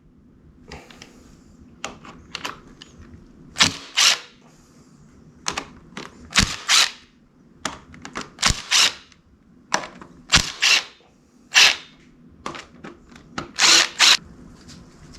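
Hand tools working on a motorcycle engine's clutch side: a string of sharp metal clicks and clanks at irregular intervals, some in quick pairs.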